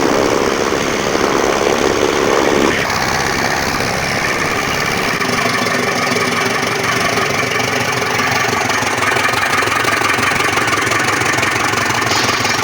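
Straw and grass chaff-cutting machine running steadily through its demonstration. The heavier sound of the first few seconds drops away abruptly about three seconds in, and the machine runs on evenly.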